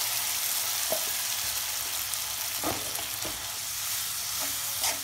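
Ground masala paste sizzling in hot oil in a metal kadai, just thinned with water and being stirred with a metal spatula, with a few short knocks of the spatula against the pan. The water is being fried off the masala as it cooks down.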